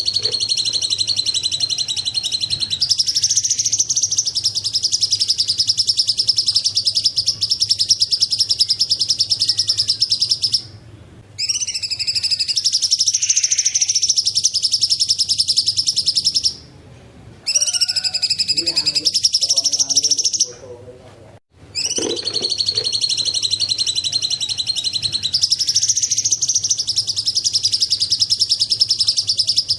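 Cucak cungkok singing long, high, rapid trills that run on for several seconds each, with short pauses about a third of the way in, just past halfway, and about two-thirds of the way through.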